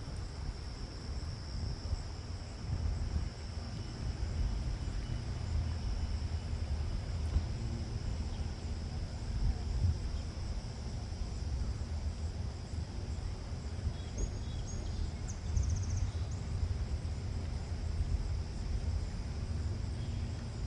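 Wind buffeting the microphone as an uneven low rumble, over a steady high drone of crickets. A few faint high chirps come in about two-thirds of the way through.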